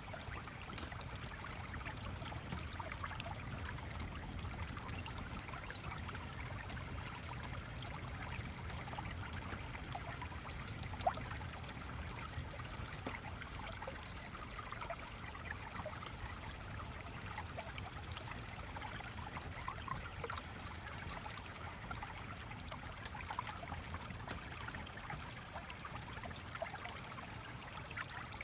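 Gently flowing stream, steady trickling and babbling water, with one sharp click about eleven seconds in.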